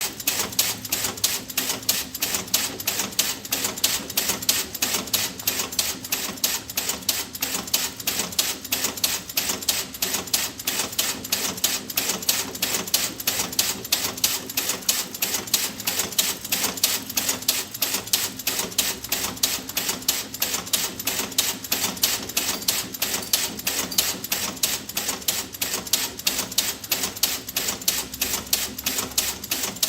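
Tik-tak clacker toy, two hard balls on a cord knocking together in a steady rhythm of about four sharp clacks a second.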